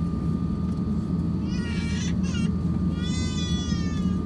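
Steady cabin drone of an Airbus A350-1000 airliner taxiing, with a thin steady whine under it. About a second and a half in and again at three seconds, a short high-pitched cry sounds over it, the second one falling in pitch.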